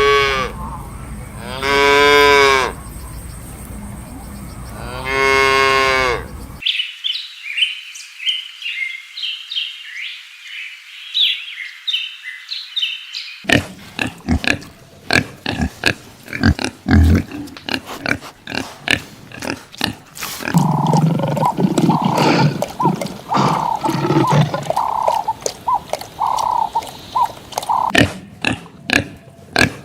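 Farm animals calling in a run of separate clips: three long calls near the start, then high chirping, then busy clicking and shorter grunt-like calls.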